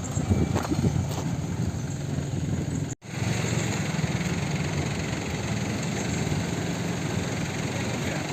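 A steady low mechanical hum from an engine or motor running, cut off for an instant about three seconds in.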